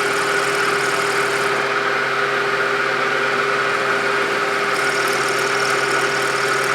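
Milling machine running steadily while its cutter is fed down on the quill into the work, a constant machine hum with a steady whine.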